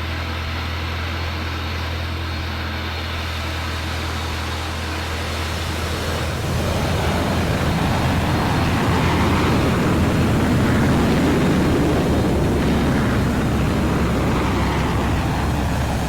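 Aircraft passing by: a steady rumble of engine noise that swells to its loudest about two-thirds of the way through, then begins to fade.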